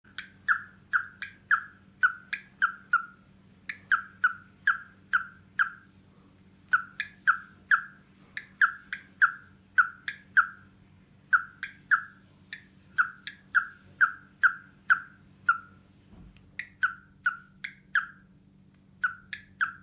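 A bird giving short, sharp, repeated calls, about two a second in runs of four to six with brief pauses between runs, over a steady low hum.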